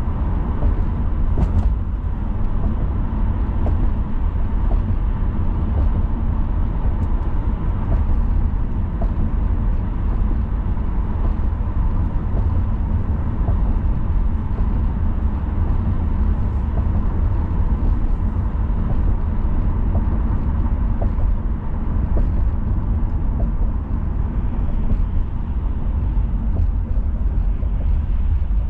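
A car driving at steady speed: a continuous deep rumble of tyres on the road and the engine, with a faint steady hum and a few light clicks.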